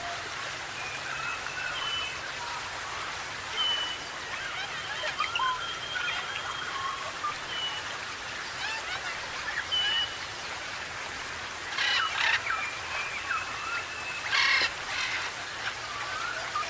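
Mixed chorus of New Guinea forest birds: many short clear whistles and wavering, warbling notes overlapping, with a few louder scratchy calls about twelve and fourteen and a half seconds in.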